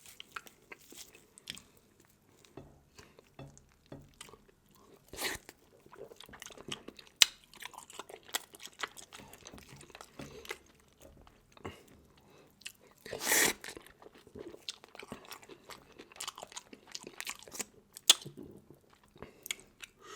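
Close-miked mukbang eating of seafood: chewing with scattered sharp crunches and clicks, and a longer, louder crunch about thirteen seconds in.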